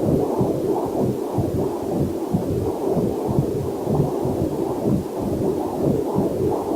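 Heartbeat as picked up by a fetal Doppler heart monitor: a steady run of rhythmic, muffled whooshing pulses, with a faint waterfall hiss beneath.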